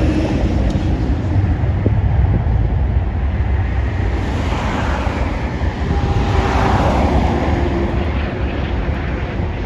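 Jet airliner engine noise, swelling about halfway through over a steady low rumble, with wind on the microphone.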